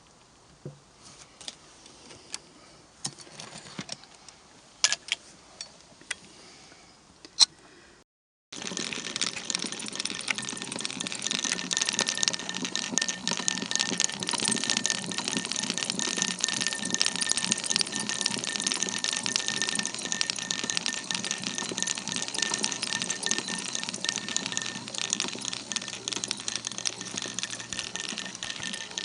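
A Singer 28K sewing machine running steadily with fast, even ticking and rattling. Before it starts there are a few scattered light clicks, with a short break just before the machine begins.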